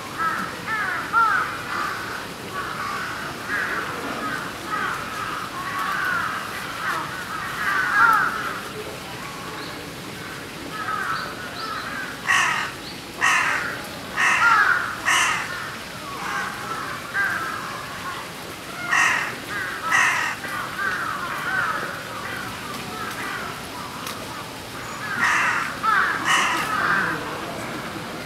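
Birds calling: a continuous high chatter, with louder harsh, caw-like calls in groups, four in a row about halfway through, two more a few seconds later and two near the end.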